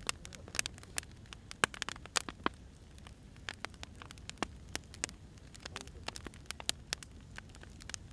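Burning firewood crackling: irregular sharp pops and snaps, several a second, over a low steady rumble. The loudest snaps come between about one and a half and two and a half seconds in.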